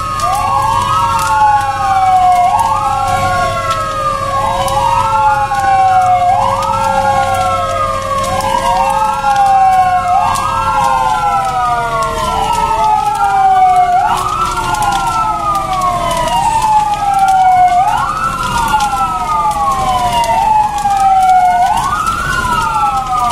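Several emergency-vehicle sirens wailing together, each rising quickly and falling more slowly about every two seconds, their cycles overlapping. A steady lower tone drops gradually in pitch about eleven seconds in.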